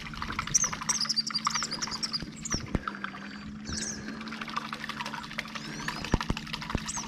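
Songbirds chirping, with quick falling calls and a short trill, over a steady low hum. A few sharp knocks come about three and six seconds in.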